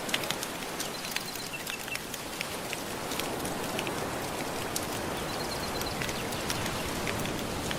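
Surf washing in a steady hiss, layered with a wood fire crackling in many small, sharp pops. A few short high chirps sound in the first seconds and again past the middle.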